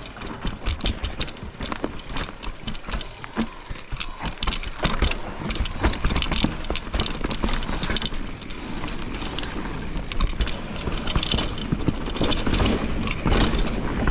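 Mountain bike riding fast down a rough, rooty trail in the wet: tyres rolling and skidding on the ground, with constant rattling and knocking from the chain and frame over the roots and bumps.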